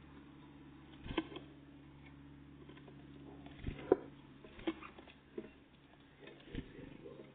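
Great tits and blue tits at a feeder: irregular pecking taps and knocks, about half a dozen, the loudest about four seconds in, over a steady low hum.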